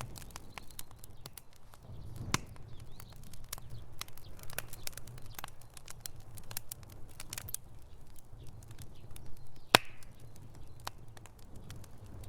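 Wood fire burning in a fireplace, crackling steadily with frequent small pops and a low rumble, and a couple of louder snaps, the sharpest near 10 seconds in.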